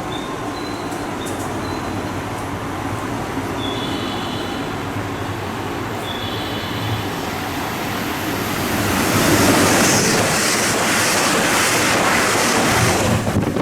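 Electric train running through the station. A few short, high wheel squeals come in the first half, then a loud rushing noise builds from about eight seconds in as a train passes close, and it drops away abruptly at the end.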